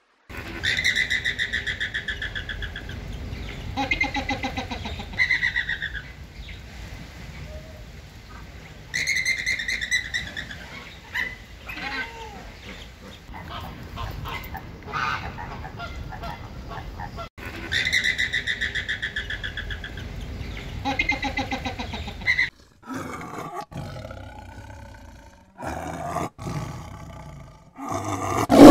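Flamingos calling: several runs of repeated calls with a steady hum of other birds behind them. About two-thirds of the way through the sound cuts to a few short calls from a big cat, the loudest right at the end.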